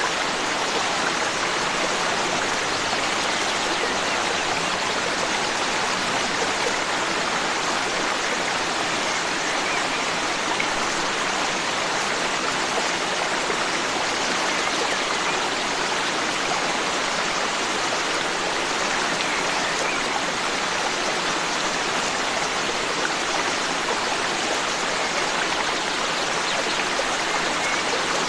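Forest stream flowing, a steady, even rush of running water.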